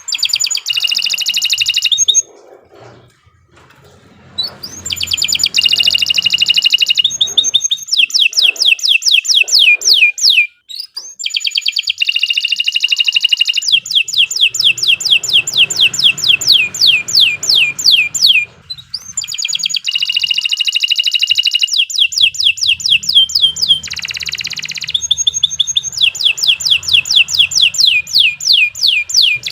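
Domestic canary in full song: long, loud phrases of fast repeated notes and rolling trills, broken by a pause of about two seconds after the first phrase and by shorter breaks later on.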